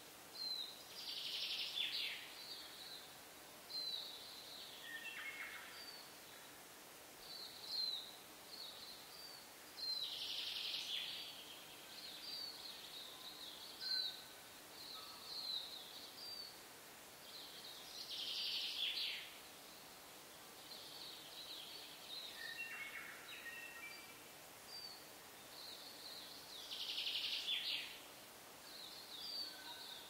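Birds chirping, with short high calls throughout and four louder bursts of song spaced about eight seconds apart.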